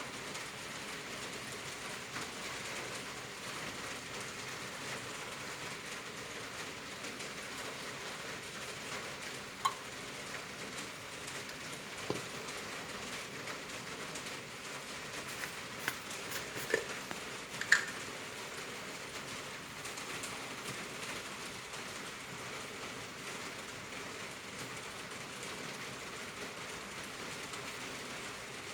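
Heavy rain falling steadily, with a few sharp clicks and knocks scattered through it.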